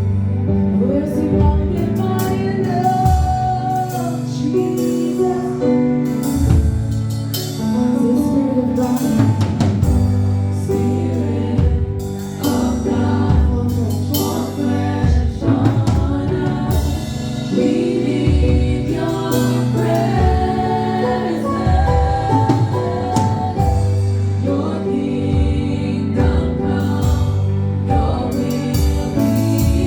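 Gospel worship song: a group of voices singing over a band with drum kit and sustained instrumental chords.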